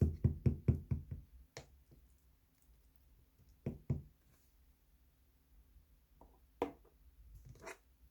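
Knocking: a quick run of about five knocks, then two more a little before the middle, and a single knock followed by a softer one near the end.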